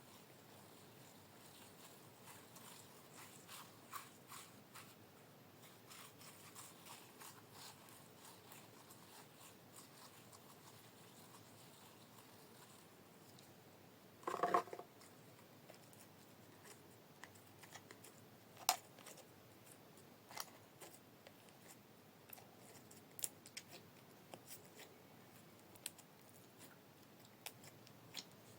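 Glitter slime being squished and played with by hand: quiet scattered crackles and clicks, with one louder squelch about halfway through.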